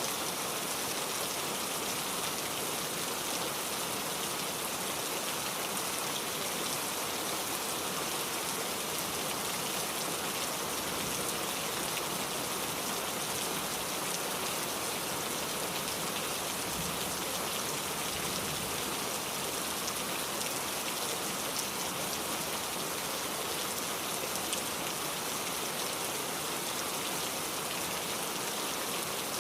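Steady rainfall, an even patter of drops on surfaces without a break.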